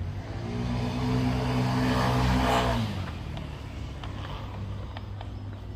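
A motor vehicle passes close by on the street, its engine note building, at its loudest about two and a half seconds in, then dropping in pitch and fading as it goes past.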